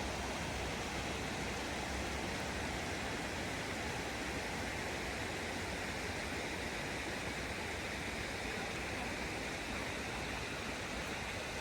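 River white water rushing over smooth stone: a steady, unbroken rush with no let-up.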